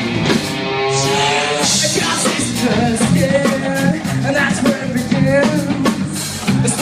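Live rock band playing: drum kit keeping a steady beat under electric guitar and bass, with a long held note about a second in.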